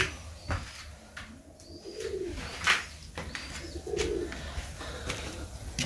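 Serbian Highflier pigeons cooing: a few short low coos about two seconds apart, with scattered sharp clicks and taps among them.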